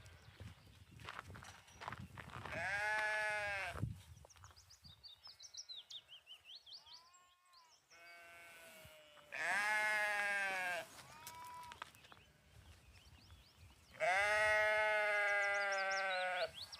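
Lambs bleating: three long, loud bleats, about three seconds in, about ten seconds in, and near the end. Faint high chirps are heard between them.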